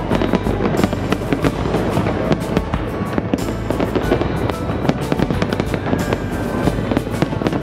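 Aerial fireworks going off in a dense, continuous barrage of crackling and popping, many sharp reports close together.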